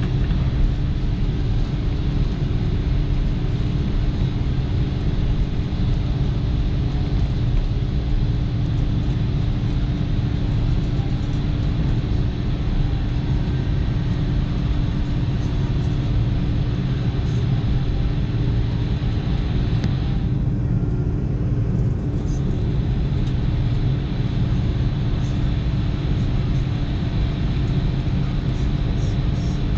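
Steady cabin rumble inside an Airbus A330-200 taxiing after landing: jet engines at idle and cabin air, with a steady low hum. The higher hiss drops away briefly about two-thirds of the way through.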